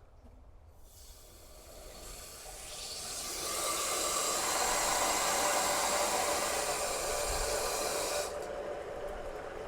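Water rushing through the cold-water supply valve and pipe into an empty new tank water heater as it fills: a hiss that builds over the first few seconds, then drops suddenly to a quieter flow near the end.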